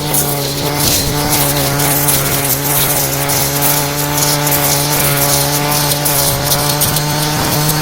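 Brush cutter's small engine running steadily at high speed, held at one pitch throughout.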